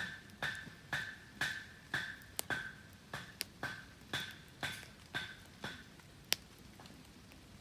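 Repeated sharp strikes of a metal blade on wood, about two a second, each with a short metallic ring: firewood or kindling being chopped for a campfire. The strikes stop near the end, and one sharper click follows.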